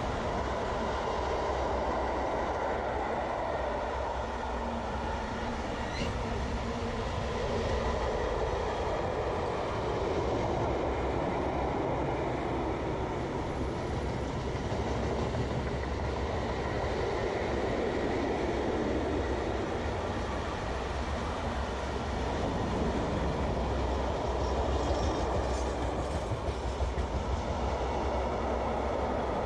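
Freight train wagons rolling past at speed: container flat wagons, then hooded steel-coil wagons, making a steady rumble and rush of wheels on rail. A short run of rhythmic wheel clatter comes near the end.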